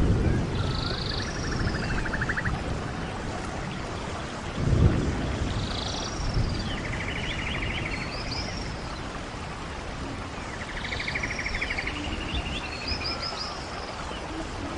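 Wind rushing, with low gusts surging at the start and about five seconds in, under repeated high chirps and short, rapid trills of birdsong.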